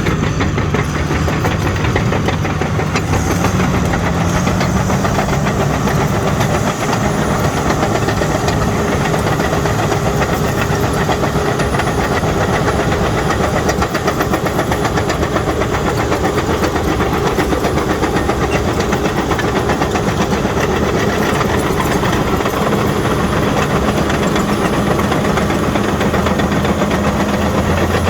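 Caterpillar D6N bulldozer at work: its diesel engine running steadily while the steel tracks clank and rattle continuously.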